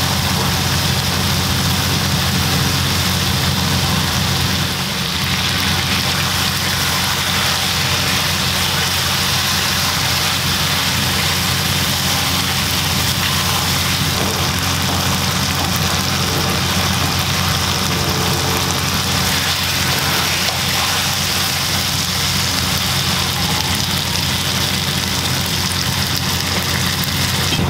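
Chicken liver and gizzards sizzling steadily as they fry in a pan, over a constant low mechanical hum.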